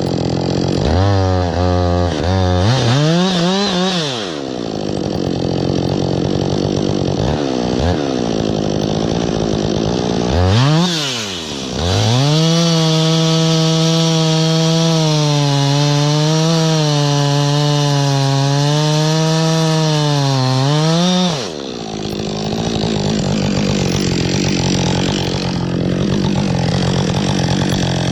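Gasoline chainsaw revved in a few quick blips, then held at full throttle for about nine seconds with its pitch wavering slightly as it cuts into wood, before dropping off about three quarters of the way through to a lower, rougher running.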